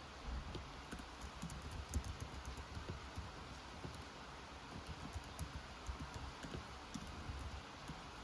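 Computer keyboard typing: quick, irregular keystrokes that start about a third of a second in, over a steady hiss of rain.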